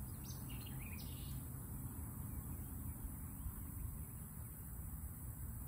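A bird gives a few short, high chirps in the first second and a half, over a steady low rumble.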